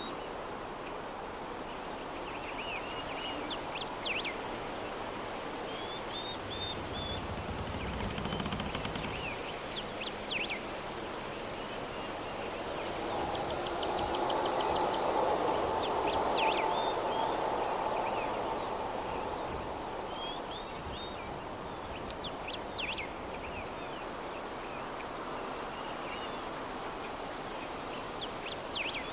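Gentle breeze ambience: a soft steady hush of wind that swells for a few seconds in the middle. Small birds chirp in short bursts every few seconds over it.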